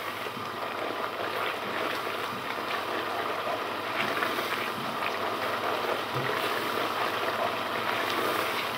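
Tomato masala sizzling and bubbling steadily in a non-stick pot, with a spoon stirring through it and scraping lightly against the pan in small scattered ticks.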